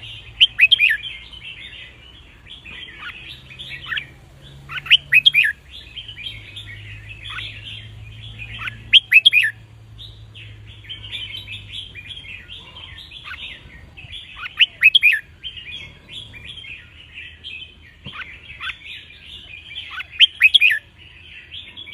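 Red-whiskered bulbul song: continuous twittering chatter broken about every four to five seconds by a loud, short phrase of sharp, clear notes. It is a song recording made for training caged bulbuls.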